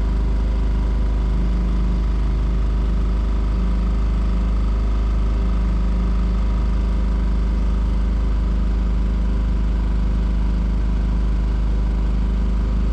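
A Hurley 20 sailboat's motor running steadily under way, an even, unchanging engine note.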